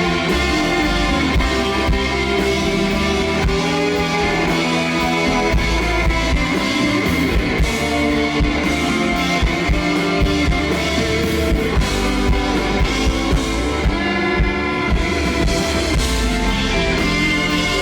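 Rock band playing live, an instrumental passage with no vocals: guitars over a steady drum kit beat.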